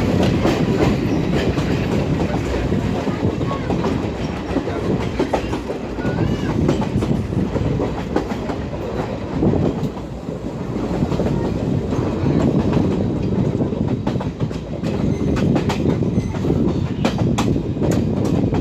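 Passenger train running along the track: a steady rumble of the carriages with the clatter of wheels over rail joints.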